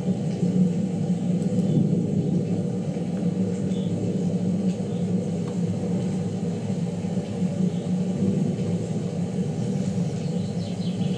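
Low, continuous rumble of rolling thunder during a heavy thunderstorm, holding at a fairly even level.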